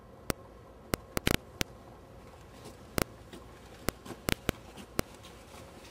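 About a dozen sharp clicks and taps at irregular intervals over a quiet room background, with a quick cluster of them just after the first second.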